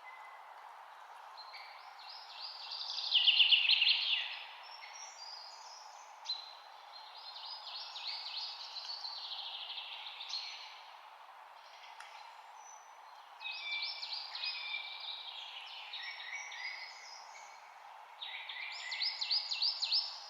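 Songbirds singing in repeated phrases of rapid trills and chirps over a steady background hiss; the loudest trills come about three seconds in and again near the end.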